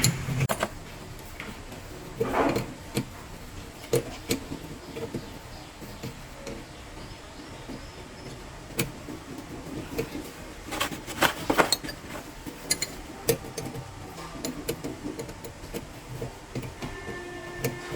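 Scattered light clicks, clinks and knocks of hand tools and metal parts being handled while working on a dump truck, with small clusters about two seconds in and again around eleven seconds in.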